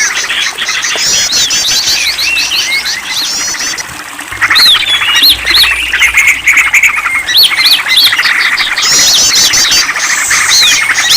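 Bird-lure recording of many songbirds chirping, trilling and calling over one another in a dense chorus. It dips about four seconds in, then comes back louder.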